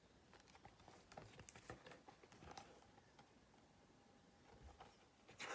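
Faint rustling and light taps from a picture book being handled, with a few sharper clicks near the end.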